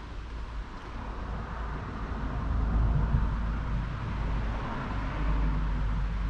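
Claas Arion 660 tractor's 6.8-litre six-cylinder diesel engine running, a steady low rumble that grows louder about two and a half seconds in.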